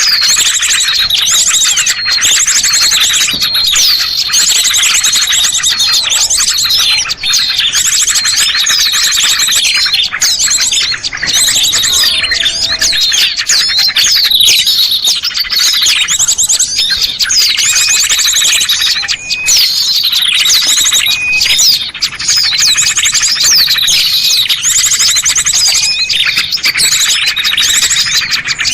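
A dense chorus of many small songbirds chirping, tweeting and trilling at once, high-pitched and overlapping without a break. It is a bird-lure (pikat) recording meant to draw small birds down.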